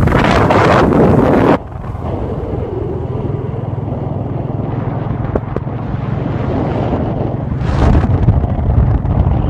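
Royal Enfield motorcycle running on the road, its engine a steady low hum. Wind buffets the microphone hard for the first second and a half, cuts off sharply, and gusts again briefly near the end.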